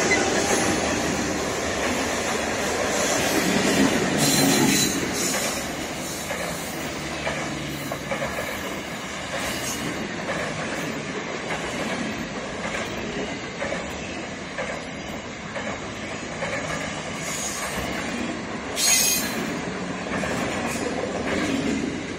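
One Rail Australia freight train passing close by: loudest at the start as the locomotive goes past, then the wagons rolling by with a steady rumble and clatter of wheels on rail. There is a short, sharp high-pitched burst about 19 seconds in.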